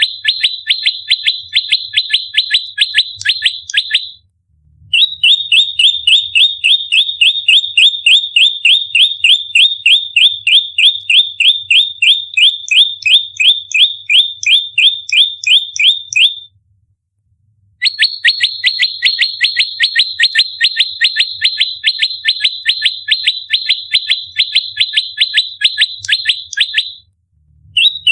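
Prenjak lumut calling in fighting mode: a rapid-fire series of loud, sharp, downward-sweeping chirps, about four or five a second. The calls come in long bouts broken by two brief pauses, about four seconds in and again after about sixteen seconds, and start up once more near the end.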